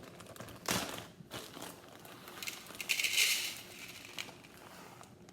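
Bird seed being poured from its bag onto a plate: the bag crinkles and the seed pours with a rustling hiss, loudest about three seconds in.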